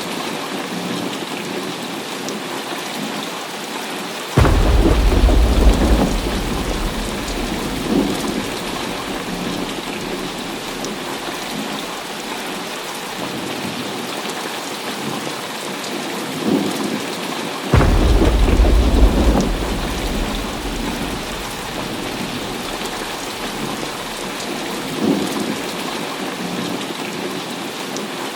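Heavy rain falls steadily while thunder breaks twice, about four seconds in and again near eighteen seconds, each a sudden deep boom that rumbles away over a couple of seconds. Fainter thunder cracks sound a few times in between.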